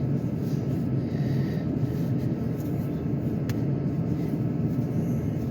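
Ford Edge idling, heard from inside the cabin as a steady low rumble, left running to warm up in freezing cold. A single sharp click about three and a half seconds in.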